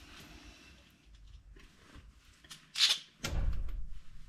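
Sway bar end-link hardware being handled and taken apart: a sharp metal clink near the end, then a short low thump and rustle.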